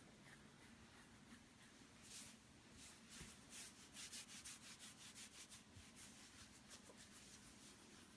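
Faint, quick rhythmic rubbing or scratching, about four or five strokes a second, starting about two seconds in and dying away near the end, over near-silent room tone.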